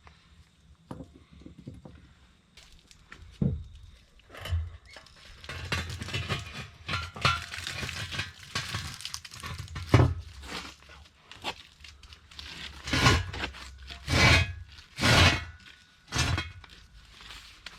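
Steel parts of a mini excavator's blade and its greased pivot pins clanking and knocking, irregular, with scraping and rattling between strikes. The knocks grow louder and sharper in the second half.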